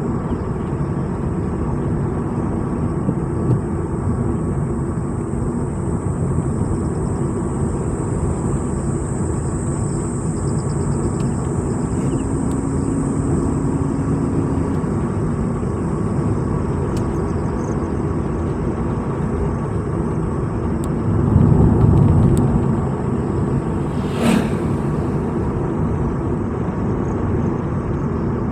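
A vehicle driving along a road, with steady engine and tyre noise. About three quarters of the way through the noise swells louder and deeper for a second or two, followed by a single sharp knock.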